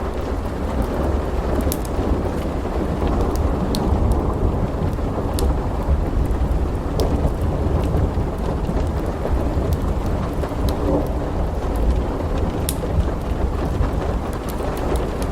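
Steady rain over a continuous low rumble of thunder, with sharp pops from a crackling wood fire scattered throughout.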